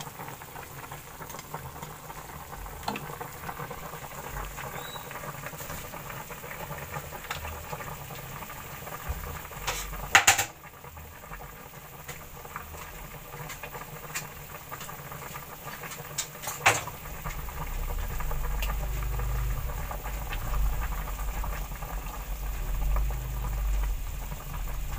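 A pot of food bubbling as it cooks, with a steady patter of small pops. There are two loud knocks, about ten and seventeen seconds in, and a low rumble from the second knock on.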